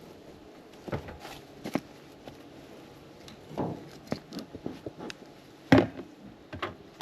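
Wooden hive parts being handled: a few separate knocks, clunks and scrapes of boxes, lids or frames, the loudest near the end.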